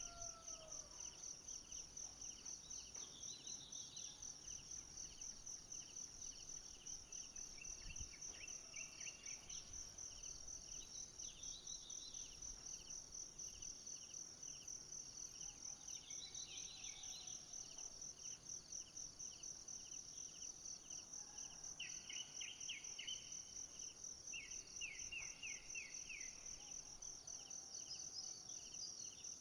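Forest insects chirring in a steady, fast pulse, faint, with scattered short chirps and calls. About two-thirds of the way in come two brief rapid rattling trills.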